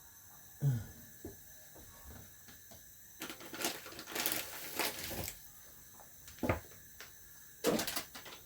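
Kitchen clatter of cookware being handled: separate knocks about a second in and again near the end, with about two seconds of rattling, scraping noise in the middle.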